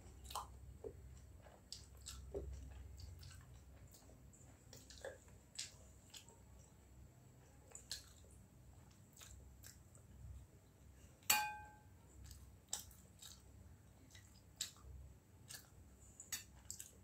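Chewing and wet mouth sounds of someone eating basi pakhala (soaked rice) by hand, with scattered small clicks as fingers scoop from a stainless steel bowl. About eleven seconds in, a sharp clink against the steel bowl rings briefly.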